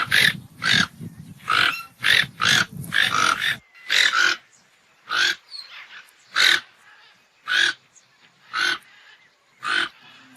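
An animal calling over and over in short loud calls, about one every second, with low grunting under the calls for the first three seconds or so.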